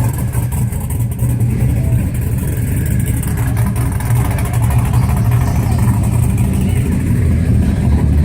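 A vehicle engine running steadily with a loud, deep rumble.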